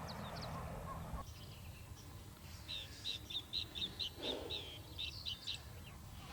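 A bird singing a quick run of short, clipped high notes, about four a second, for roughly three seconds from a little after two seconds in. Before that, a steady rushing noise cuts off suddenly about a second in.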